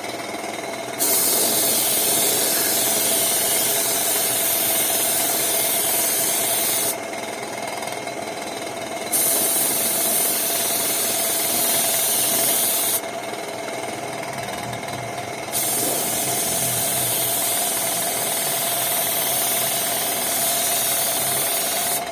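Compressed air hissing in three long bursts of about six, four and six seconds, each switching on and off abruptly, over a steady mechanical hum with a constant mid-pitched tone.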